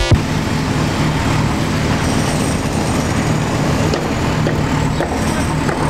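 Steady rumble of a motor vehicle engine running, a low hum under an even hiss.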